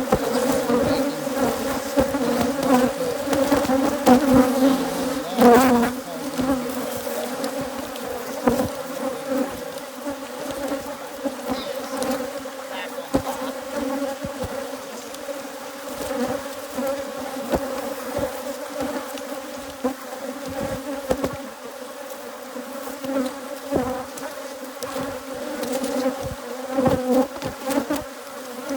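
Swarm of Africanized hybrid honey bees from an opened hive, buzzing in a steady drone, with scattered short knocks.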